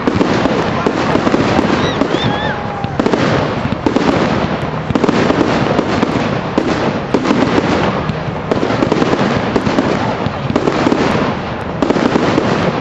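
Fireworks display going off in a dense, continuous barrage of bangs and crackles, with a few short whistling tones about two seconds in.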